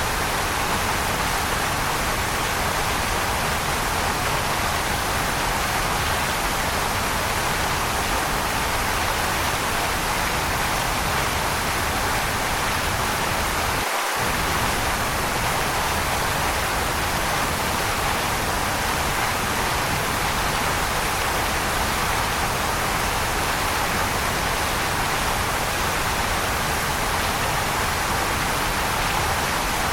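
Waterfall: a steady, even rush of falling water, with a brief dip in the low rumble about halfway through.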